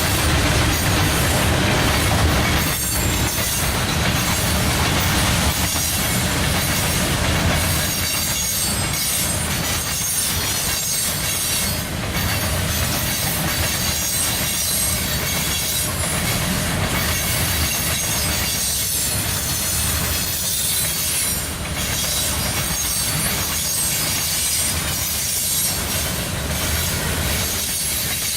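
A train rolling past, its cars' wheels clicking over rail joints, with a high-pitched squeal from the wheels.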